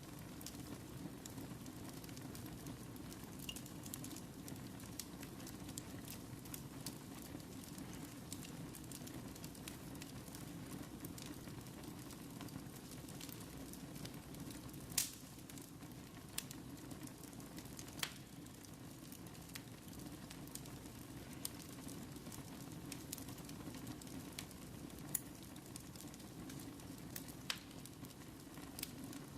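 Fire burning in a fireplace: a steady low rush of flames with scattered crackles and pops, the sharpest about halfway through.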